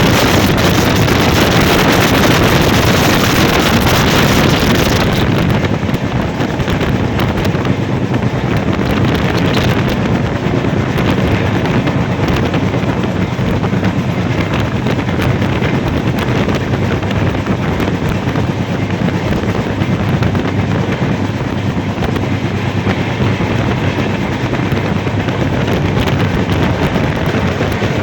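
Train running at speed on the rails, heard as a loud, steady noise with heavy wind buffeting the microphone. The hiss softens about five seconds in and the sound then carries on steadily.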